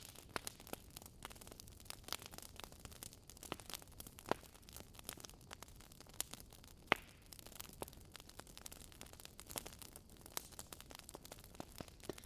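Wood logs burning in a fireplace, crackling with irregular sharp pops over a soft hiss of the flames; two louder pops stand out, about four and seven seconds in.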